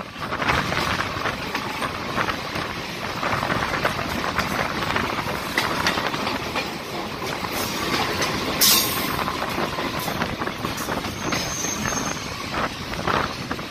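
Electric suburban local trains on the Chennai MRTS line: the steady rush and rattle of the train in motion as an oncoming EMU train's coaches pass close alongside on the next track. Wheels click over rail joints throughout, with a brief sharp hiss a little past the middle.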